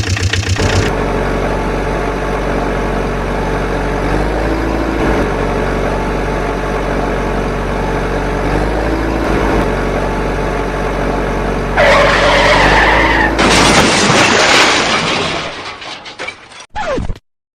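Dubbed engine sound effect running steadily. About twelve seconds in, a loud tyre-skid squeal comes in, then a noisy crash sound that fades away near the end.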